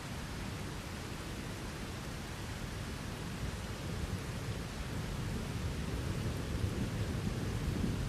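Steady heavy rain with a low rolling rumble of thunder underneath, the rumble building slightly over the last few seconds.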